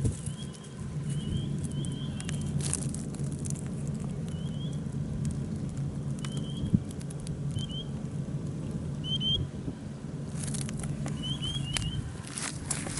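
Short high chirps, often in pairs, every second or two over a steady low hum, with a few brief rustles, the strongest near the end.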